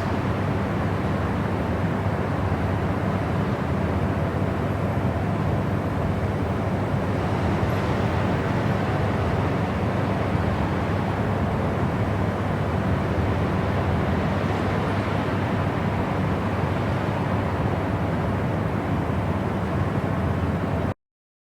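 Steady, deep rushing noise track of the kind played as white noise for study or sleep, heavier in the low end than in the highs. It cuts out to silence for about a second near the end, then resumes.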